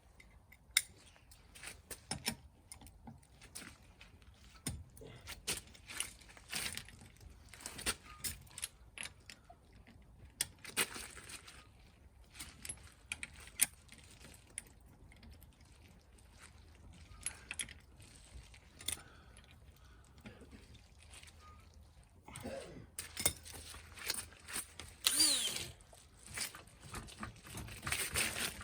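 Hand tools and metal parts clinking and knocking during a wheel and tyre change, with a power tool whirring and changing pitch near the end.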